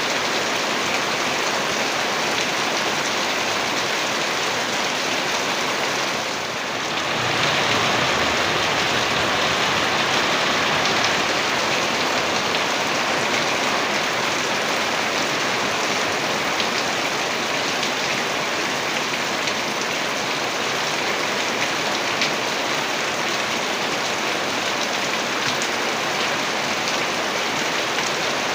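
Heavy rain falling steadily, a dense even hiss of drops. It dips briefly about six seconds in, then comes back slightly louder.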